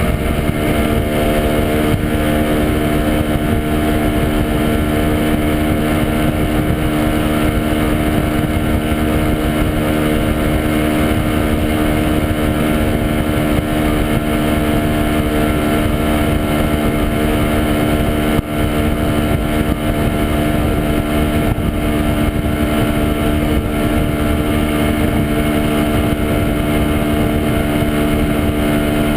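Two-stroke single-cylinder engine of a 1967 Montesa Impala Comando 175 running at a steady, unchanging speed under way, heard from on board. Its loudness dips once, briefly, about two-thirds of the way through.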